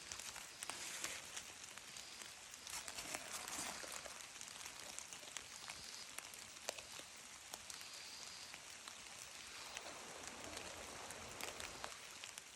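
Light rain falling in a forest: a faint, steady hiss with scattered sharp ticks of drops landing.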